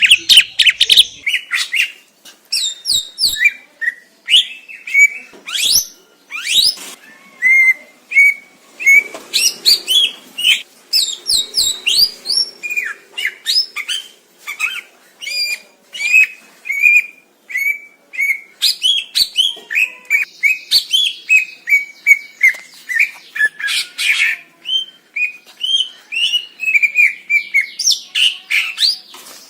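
Green leafbird (cucak ijo) singing a long, rapid, nearly unbroken string of short, high chirps and whistled notes, many sweeping sharply up or down.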